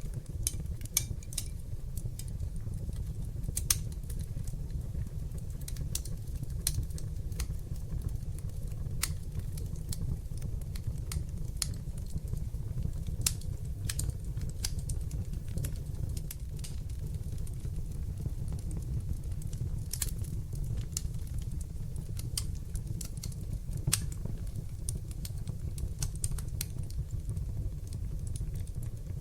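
Fire burning in a fireplace: a steady low rumble of flames with irregular sharp crackles and pops scattered throughout, a few of them louder than the rest.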